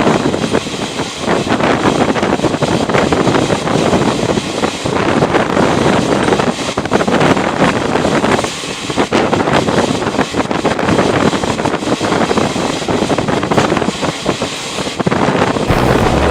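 Passenger train running at speed: a loud, dense rumble and clatter of wheels on track, mixed with wind buffeting the microphone. Music comes in near the end.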